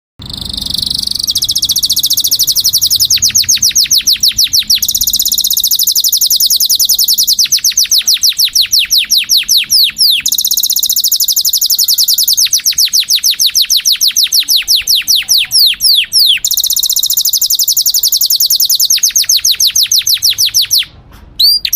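Domestic canary singing a long, near-continuous song of fast rolling trills, broken up by runs of quick downward-sweeping notes. There is a brief pause shortly before the end.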